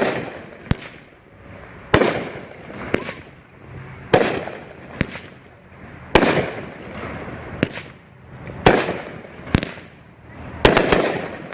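200-gram ten-shot fireworks cake (Shogun Off & Running) firing shot after shot: about every two seconds a sharp launch thump, then about a second later the shell bursts aloft with a louder bang that echoes away. Five such shots follow one another.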